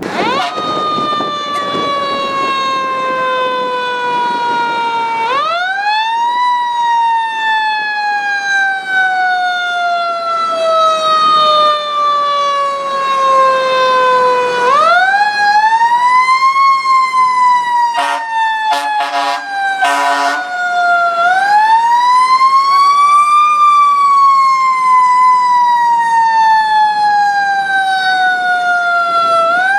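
Fire truck siren wailing, repeatedly winding up in a quick rise and then falling slowly in pitch over several seconds. About two-thirds of the way through, three short horn blasts sound over it.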